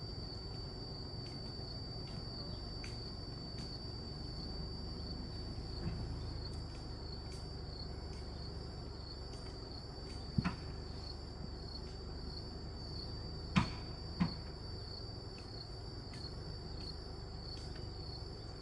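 An insect trills steadily at one high pitch, over a low rumble. A few short sharp knocks come around the middle.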